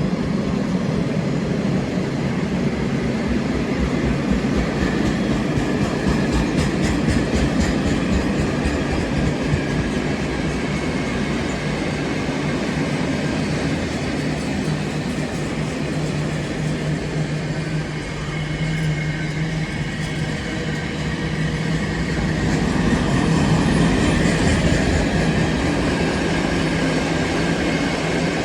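Freight train of car-carrier wagons rolling steadily past, with a continuous noise of wheels running on the rails and a low hum. It grows a little louder about two-thirds of the way through.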